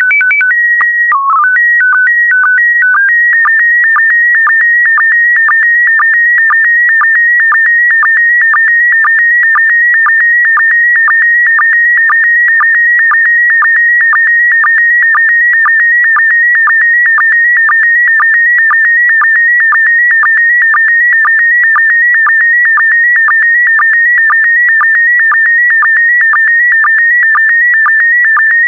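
Slow-scan TV (SSTV) image transmission in PD120 mode: it opens with a few seconds of steady header tones stepping between pitches (the calibration leader and VIS mode code), then runs on as a high warbling tone broken by short regular sync pulses about twice a second as the picture's scan lines are sent.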